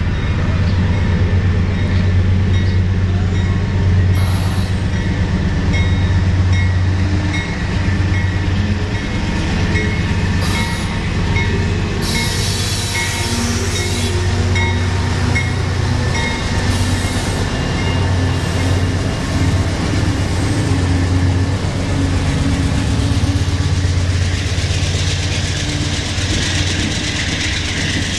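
Diesel locomotives of a CSX freight train passing close by, their engines running with a steady deep rumble. A brief burst of high-pitched wheel squeal comes about twelve seconds in, and the noise of the freight cars rises near the end as the locomotives go by.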